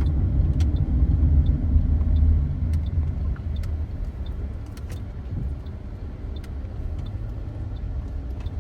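Low rumble of a Toyota Corolla GLi running, heavier for the first two and a half seconds and then settling lower, with a few faint ticks.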